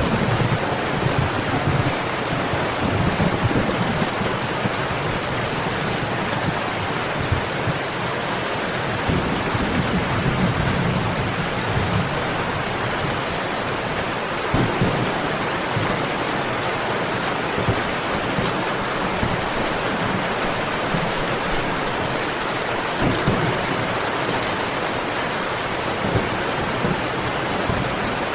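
Steady heavy rain with low rolls of thunder, rumbling near the start and again about ten seconds in. A few sharp pops stand out over the rain.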